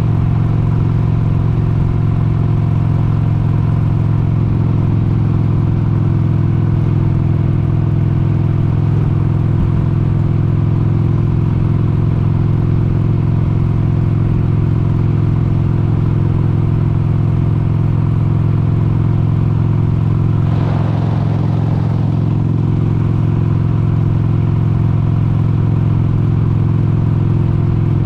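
1996 Harley-Davidson Sportster 883's air-cooled V-twin running at a steady cruise, its pitch holding even. A brief rush of noise passes over it about twenty seconds in.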